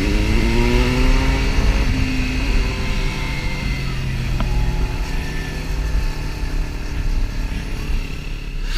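Motorcycle engine accelerating, its pitch rising for about two seconds, then running steadily at cruising speed, with wind rushing over the microphone.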